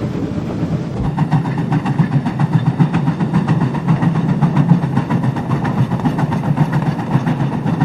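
Oil-fired steam locomotive running, heard in its cab: a steady low rumble with a rapid rhythm of beats, getting louder about a second in as the fire is given more oil to pick up speed.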